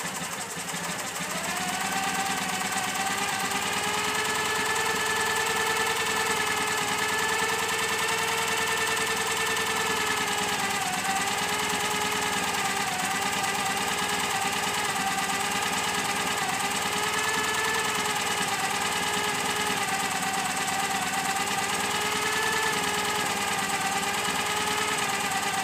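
Citroën 2CV AZU's air-cooled flat-twin engine running on its first start after years laid up. Its speed picks up about two seconds in, then holds with a slight wavering.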